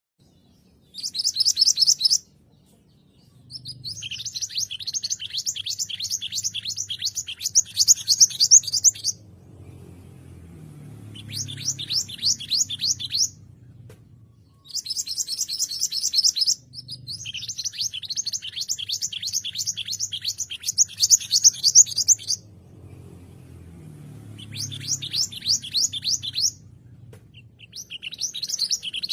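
Mantenan gunung songbird singing in fast, chattering trills of rapid high notes. The phrases last from about one to five seconds, with short pauses between them.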